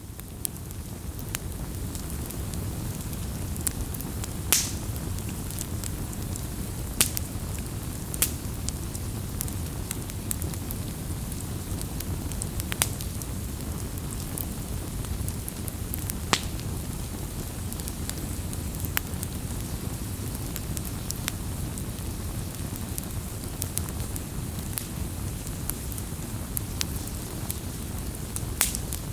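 Wood fire crackling, with a steady low rumble of flames and sharp pops and snaps of burning wood every second or few.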